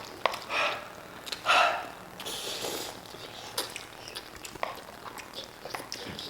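Someone eating hot noodles fast: several short slurps and sharp sniffing breaths, followed by a few light clicks, typical of utensils on a bowl. The noodles are spicy with hot sauce.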